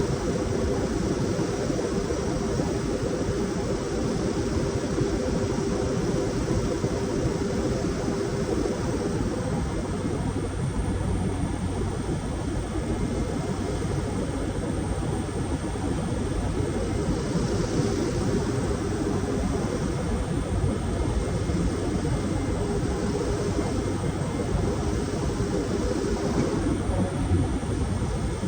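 Aircraft engines droning steadily during a landing approach: an even rushing noise with a constant low hum, which deepens about a third of the way through.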